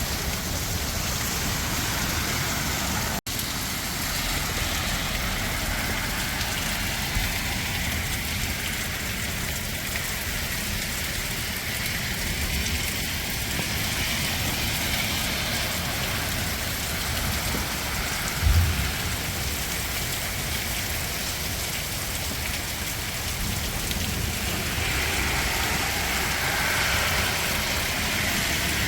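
Heavy rain falling steadily, with a brief low thump about two-thirds of the way through.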